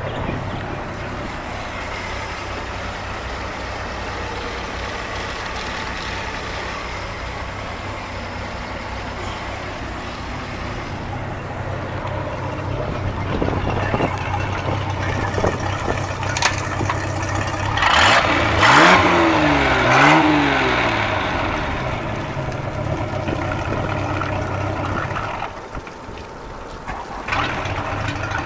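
Crownline boat's engine being test-run after a tune-up and new belt, idling steadily. Past the middle it is revved up and back down twice in quick succession. Near the end the sound dips briefly, then settles back to a steady idle.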